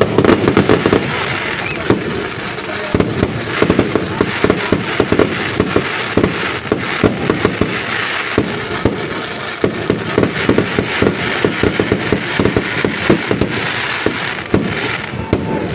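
Fireworks display going off continuously: a dense, irregular run of bangs and crackles with no let-up.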